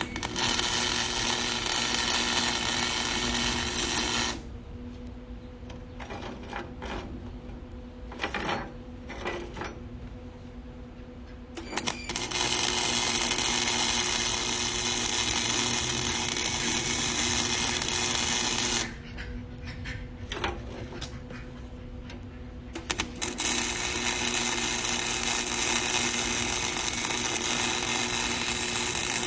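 Electric welder arc crackling and buzzing in three long welds of several seconds each as the rebar pieces are tacked and welded together, each starting and stopping abruptly. Between the welds there are a few short clicks and knocks.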